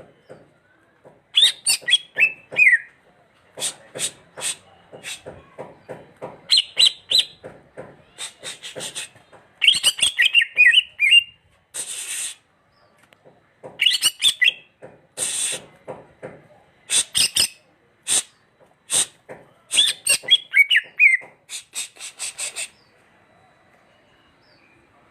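Cucak hijau (greater green leafbird) singing: runs of sharp, rapid chattering notes mixed with short whistled phrases that slide downward, repeated several times and stopping near the end.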